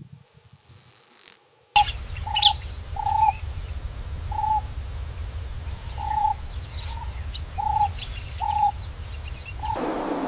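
Wild nature ambience: a steady high-pitched insect drone under a low rumble, with a short mid-pitched call repeated about once a second and a few high bird chirps. It starts suddenly and cuts near the end to a steady rushing noise.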